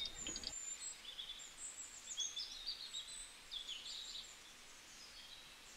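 Birds chirping faintly: a scatter of short, high calls and little gliding whistles, which die away about four and a half seconds in.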